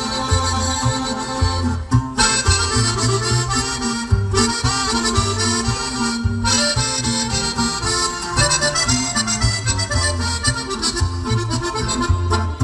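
Accordion-led Mexican band music: an instrumental introduction with the accordion playing the melody over a bass line and guitar.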